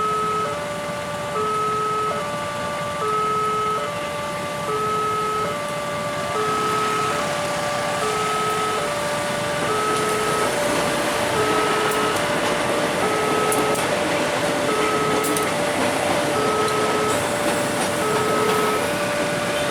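Railway level-crossing warning alarm sounding without pause, an electronic signal that alternates between two pitches, each held for just under a second. Under it runs the noise of road-vehicle engines, which grows louder about halfway through.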